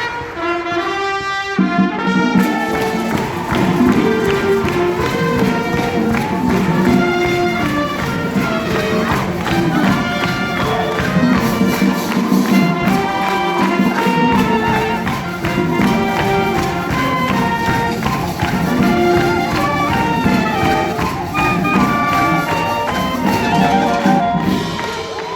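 Wind band playing: many wind instruments sounding sustained notes together in a full, loud ensemble passage.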